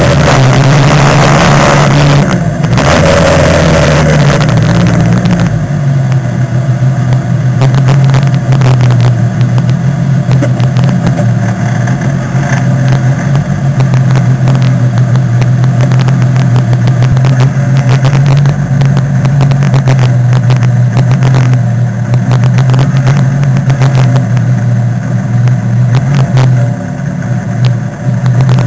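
Autocross race car's engine heard from inside the cabin, dropping in pitch as the car slows over the first few seconds. It then idles steadily with the car at a standstill.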